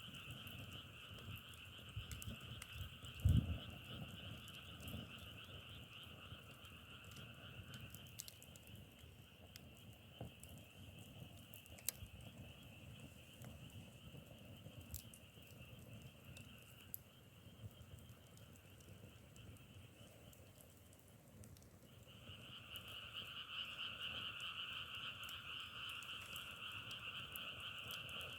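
Frog chorus: a dense, crackling trill that sounds like burning firewood. It thins out partway through, stops almost entirely for a moment about three quarters of the way in, then starts up again louder.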